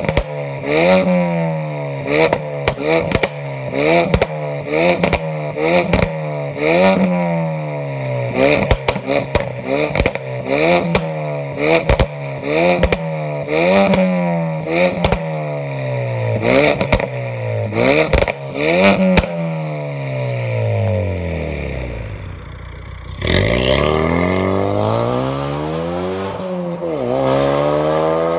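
2017 Ford Focus RS mk3's 2.3-litre turbocharged four-cylinder revved over and over in quick blips, about one a second, through an RCP turbo-back valved exhaust, with sharp cracks as each rev drops. Later the revs fall away for a few seconds, then come back in a few slower, longer rises.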